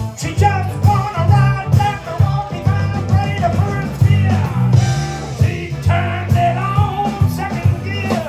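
A live band playing an upbeat rock-and-roll blues number, with a steady pulsing bass line under a guitar lead.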